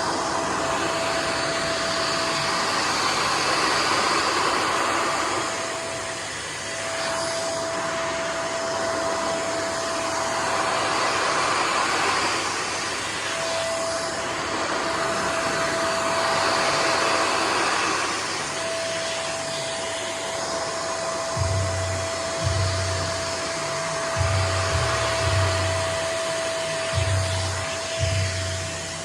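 Nunix wet and dry vacuum cleaner running steadily in blower mode: a constant rush of air with a steady motor whine that dips out briefly a few times. Low, irregular thumps join in during the last several seconds.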